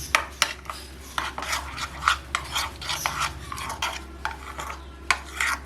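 A spoon stirring a thick sauce of mayonnaise, mustard paste and chili sauce in a bowl, clicking and scraping against the bowl in quick repeated strokes.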